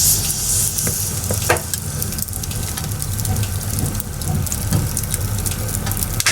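Bonfire of firewood burning, crackling with many sharp pops over a steady hiss and a low rumble.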